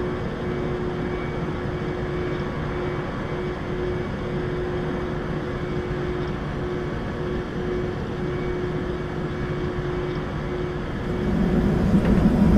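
Cabin noise inside a Southwest Boeing 737-700, its CFM56-7B jet engines at low power with a steady hum. About eleven seconds in the sound grows louder and deeper as the engines spool up.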